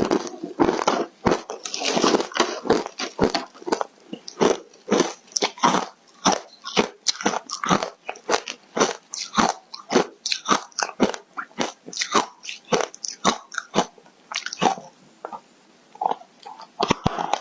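Close-miked chewing of crunchy foam ice: rapid, sharp crunches several times a second, thinning out to a few spaced crunches near the end.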